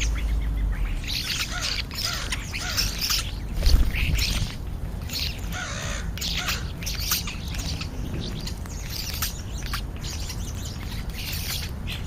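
A flock of European starlings chattering, with many overlapping short chirps and squawks. A dull low bump comes about four seconds in.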